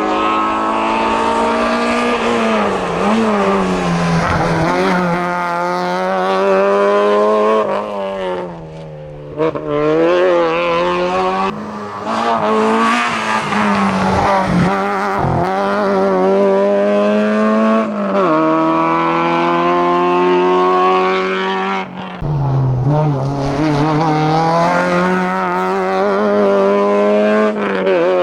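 Citroën AX hillclimb car's engine at full throttle, its pitch climbing and falling back several times as it changes gear and lifts on the way up the climb.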